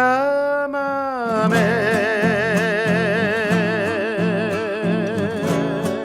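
A voice holds the last word of a chamamé song, "chamamé," as a long note with wide vibrato. Strummed acoustic guitar plays under it, and the held note fades near the end, leaving the guitar.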